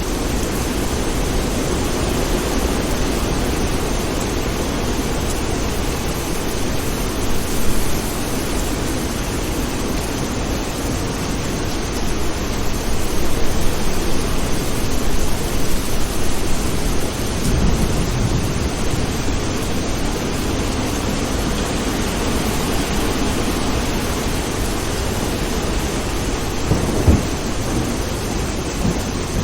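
Steady heavy rain with rolls of thunder: a continuous rain hiss, with a longer low rumble of thunder building midway and a short rumble near the end.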